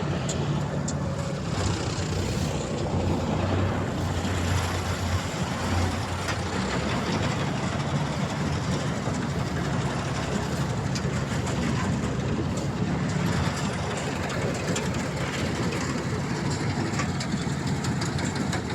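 Engine of a paddy-harvesting machine running steadily under load, a low even hum under a dense mechanical rattle.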